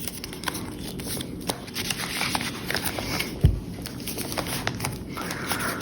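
Paper rustling with small clicks as the pages and paper inserts of a handmade junk journal are handled and turned, with one low thump about three and a half seconds in.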